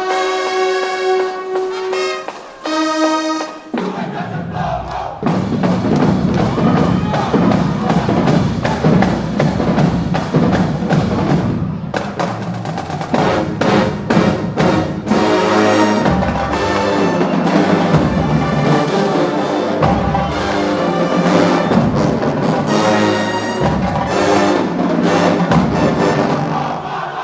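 Marching band brass holding loud chords for the first few seconds, then the full band comes in from about four seconds: brass playing over a driving drumline beat.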